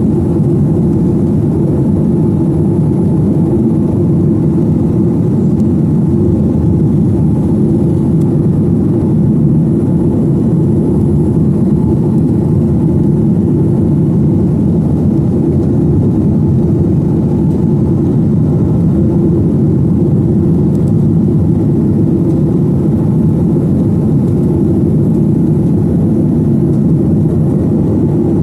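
Steady, loud cabin drone of a Boeing 737-900ER's CFM56-7B turbofan engines, even and unchanging.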